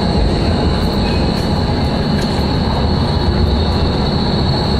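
Urban rail train running on the tracks: a steady low rumble with a constant high-pitched wheel squeal over it.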